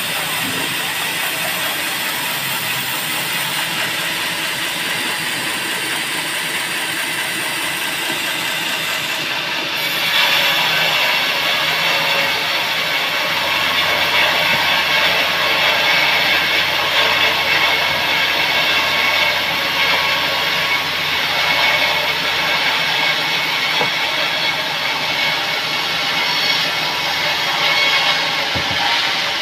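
Band sawmill running steadily as it saws a teak log. About ten seconds in, it gets louder with a dense high hiss as the blade works through the wood.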